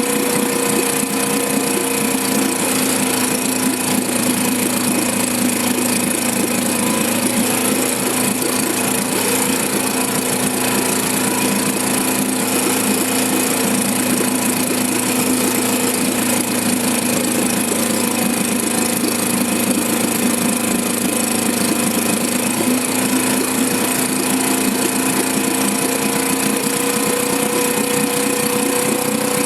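1954 Johnson CD-10 5.5 hp two-stroke outboard motor running steadily in a test barrel of water. Its pitch sags a little after the start and climbs back up near the end.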